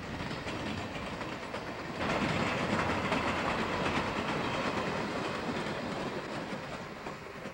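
Train rolling past, its wheels clicking over the rail joints. It gets suddenly louder about two seconds in, then slowly fades.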